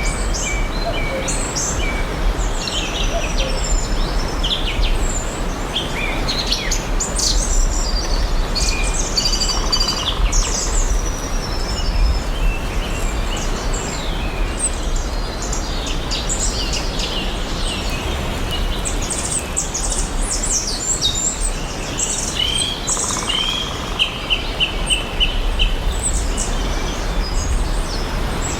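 Several songbirds chirping and singing together over a steady background hiss and low rumble, with a run of quick repeated notes near the end.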